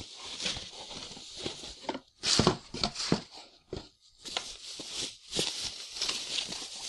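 Rustling and crinkling of a Drift HD Ghost action camera's packaging being handled and opened, with scattered small knocks; the loudest rustle comes a little over two seconds in.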